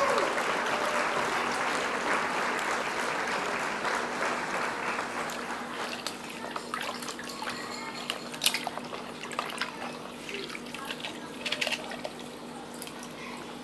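Water pouring and splashing in a bucket, strongest at first and dying away over about six seconds, then scattered light knocks and small splashes of plastic toys in the water.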